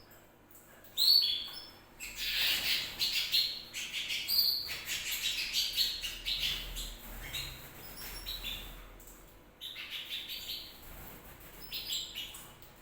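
Domestic canary singing: phrases of high chirps and trills broken by short pauses, with a sharp loud note about a second in.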